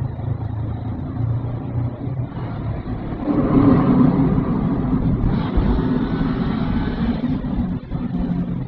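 Honda NX500's parallel-twin engine running at a steady cruise, with wind and road noise. About three seconds in, a louder rumble builds, holds for several seconds, then eases.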